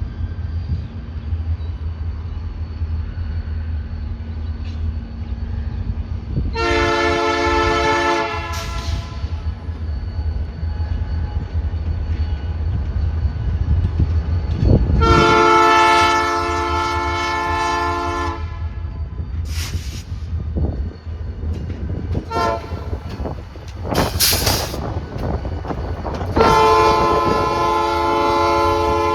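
Diesel locomotive air horn on a BNSF light-power consist of EMD SD40-2 and GP39-3 units, sounding a chord of several notes. It gives three blasts: a short one about seven seconds in, a longer one at about the midpoint, and a third starting near the end. A steady low rumble of the locomotives and wind runs underneath.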